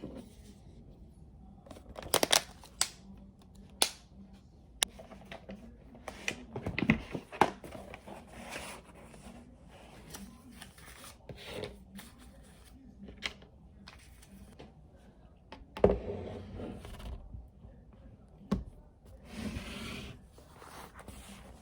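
Scattered clicks, taps and rustles of small objects being handled, with a sharper knock about 16 seconds in and a stretch of rustling near the end.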